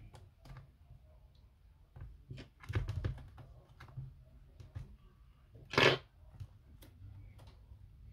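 Scattered clicks and taps of small hard parts being handled, with a cluster of knocks about three seconds in and one louder short scrape or crack just before six seconds.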